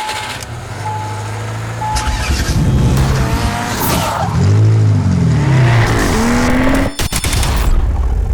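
Three short beeps about a second apart, like a race-start countdown, then a car engine revving up and down several times with tyre squeal, cut off sharply near the end and followed by a steady engine rumble.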